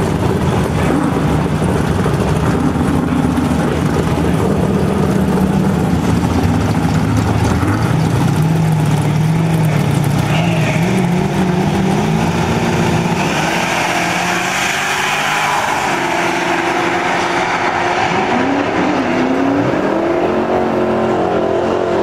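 Two Ford Mustangs, a 1993 Fox-body and an SN95, running at the drag strip start line, then launching and accelerating away down the track. In the second half the engine pitch rises and drops again and again as they go through the gears.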